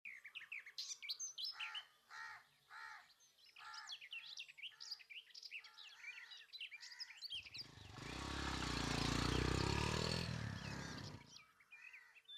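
Many birds chirping, with one bird repeating a short call over and over. Near the middle a low rushing sound swells up and fades away over about four seconds.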